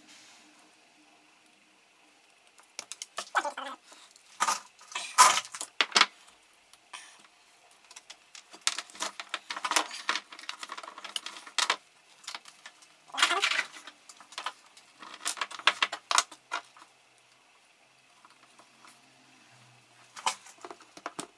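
Small metal parts and hand tools clinking and rattling as they are handled, in irregular bursts of clicks with short pauses between them.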